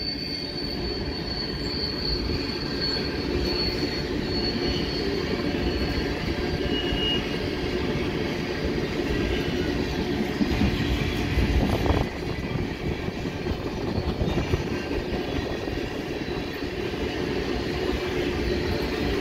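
Freight train of tank cars rolling past: a steady rumble of wheels on rail. A thin, high wheel squeal runs over the first several seconds and fades out. The rumble swells louder for a moment about ten to twelve seconds in, then drops back suddenly.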